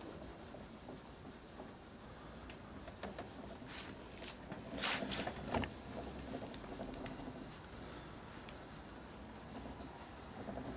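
Light handling noises at a workbench: scattered small clicks, with a short burst of scraping strokes about five seconds in.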